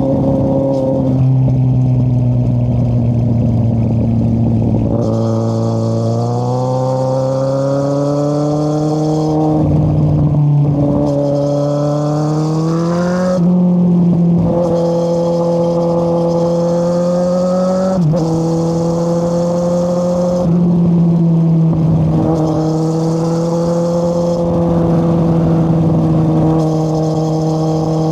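Kawasaki Z800's inline-four engine through an Akrapovic exhaust with the dB killer removed, riding under load. The engine note climbs as it accelerates and drops back at each gear change, several times over.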